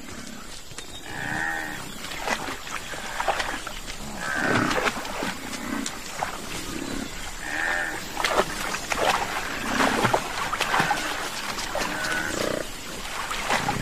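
Wild water buffalo grunting and lowing, with short calls repeated every second or two.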